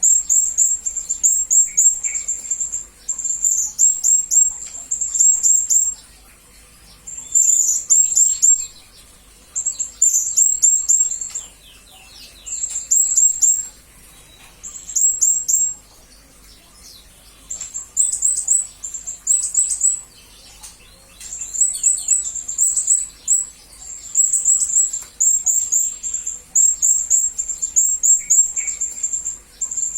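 Blue-crowned hanging parrot (serindit) calling: rapid strings of very high, thin chirps in bursts of a few seconds, separated by short pauses.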